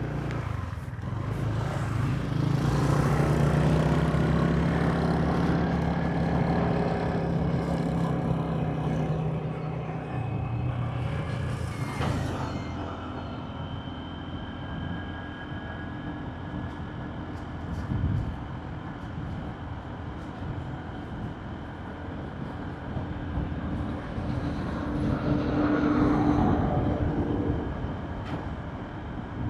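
Motorbike ride sounds: an engine running steadily under continuous road noise, louder over the first ten seconds and again near the end, with a single sharp knock about twelve seconds in.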